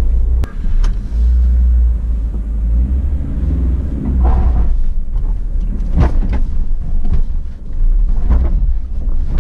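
Off-road 4x4's engine running at low speed, a steady deep rumble, with a few sharp knocks from the vehicle rolling over the rough dirt track.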